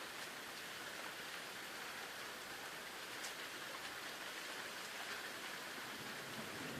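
Steady rain falling as a thunderstorm eases off: an even hiss with a few faint ticks of single drops and no thunder.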